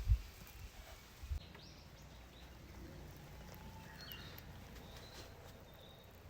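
Faint outdoor ambience with a few short, high bird chirps. Two low thumps come in the first second and a half.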